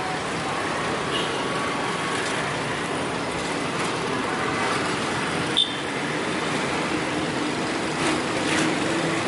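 Steady rumble of passing traffic, with a single sharp click about five and a half seconds in.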